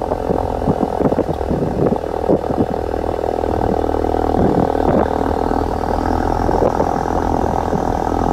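Ford Focus RS engine idling steadily through its stock exhaust just after a cold start.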